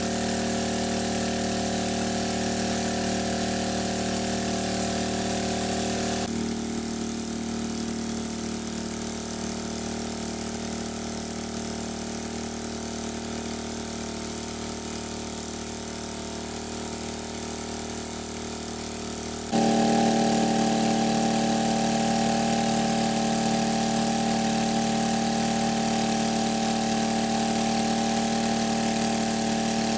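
An engine running at a steady speed, a constant droning hum. It drops abruptly to a quieter, thinner drone about six seconds in and jumps back louder about twenty seconds in.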